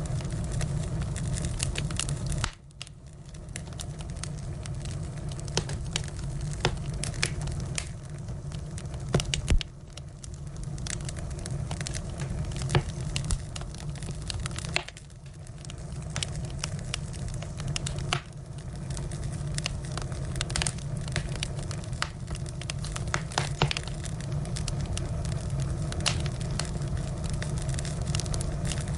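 Firewood burning, crackling and popping with frequent irregular sharp snaps over a steady low rumble.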